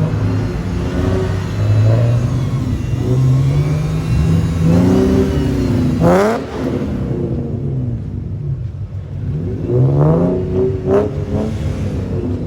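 Car engine idling and being revved twice: the pitch climbs steeply to a sharp peak about six seconds in and drops back, then climbs and falls again around ten to eleven seconds.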